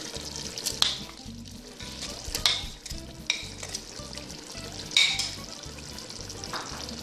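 Chicken curry sizzling in a metal pot as cream is added, with a few short taps and clicks.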